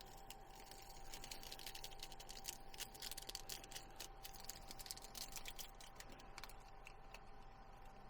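Faint, quick clicking and light rustling of small items being handled, densest in the middle, over a steady faint hum.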